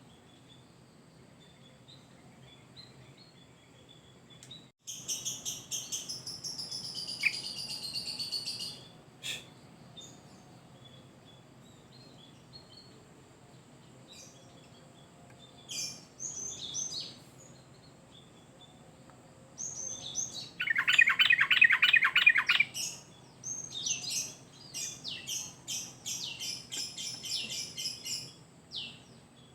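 Yellow-vented bulbul (trucuk) singing in bursts: a phrase about five seconds in, short calls around sixteen seconds, then a longer run of quick notes from about twenty seconds on, including a fast trill. A low steady hum lies underneath.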